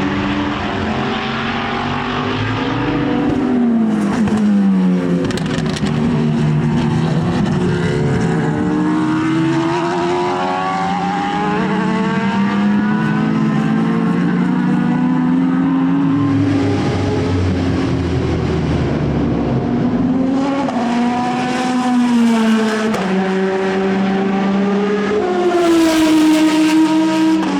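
Racing car engine running hard at speed, its pitch repeatedly climbing and then dropping sharply as it shifts gears and lifts and brakes for corners.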